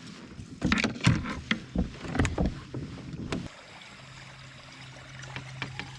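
A run of sharp knocks and clatters on a fishing kayak for about three seconds, with a steady low hum carrying on alone from about halfway through.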